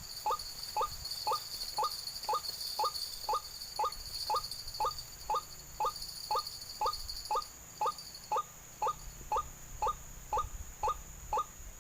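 White-breasted waterhen (ruak-ruak) call used as a lure: a short, identical 'kwak' note repeated steadily about twice a second. Insects keep up a steady high hiss behind it, part of which stops near the end.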